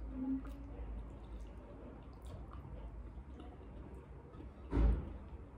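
Wet chewing and mouth sounds of a person eating, with small scattered clicks, and one louder brief sound just under five seconds in.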